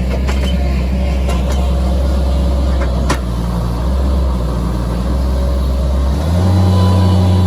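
Diesel engine of a Bobcat skid-steer loader running steadily, then stepping up in engine speed about six seconds in. A few sharp knocks are heard in the first half.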